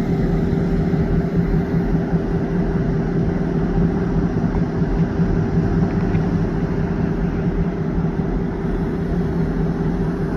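Diesel locomotive engines running steadily at close range: a loud, even rumble with a constant droning tone.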